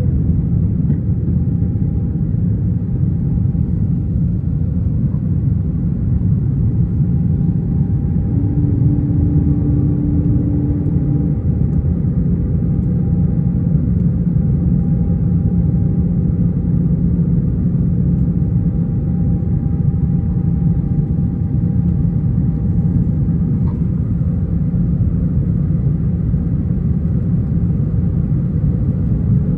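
Steady rumble of engine and airflow noise inside the cabin of an Airbus A320 airliner, with a faint steady whine over it. A short low hum sounds about eight seconds in, and a tone rises slightly near the end.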